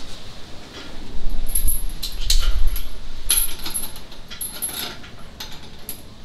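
Irregular metallic clinks and rattles of metal parts being handled, with a heavier low knock about two seconds in.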